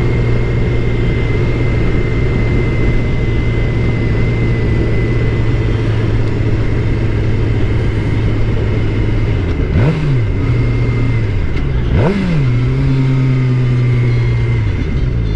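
Suzuki GSX-R 600's inline-four engine running steadily at road speed. Twice, about ten and twelve seconds in, the engine note dips and then jumps up in a quick rev before settling back.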